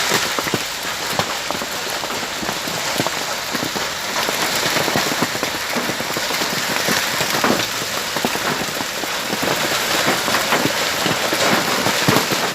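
Heavy downpour with hail: a dense, steady hiss of rain with many sharp clicks of stones striking hard surfaces throughout. It cuts off suddenly at the end.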